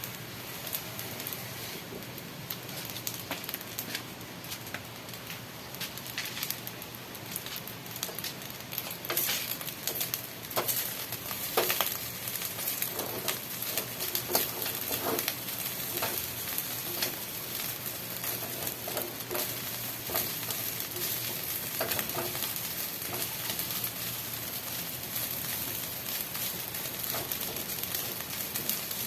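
Chicken adobo sizzling steadily in a pan. Between about 9 and 22 seconds in, a cooking utensil scrapes and knocks against the pan as the food is stirred.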